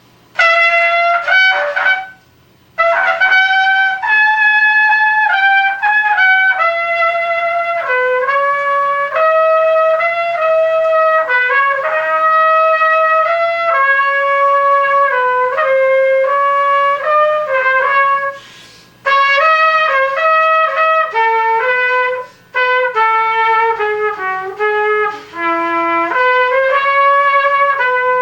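Unaccompanied trumpet solo: a single melodic line of held and moving notes, broken by brief breath pauses about two seconds in, near the middle and again a few seconds later. A faint steady electrical hum runs underneath.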